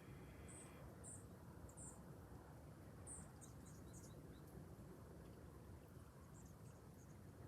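Near silence with faint, high-pitched chirps of small birds in quick short runs, through the first half and again about six seconds in.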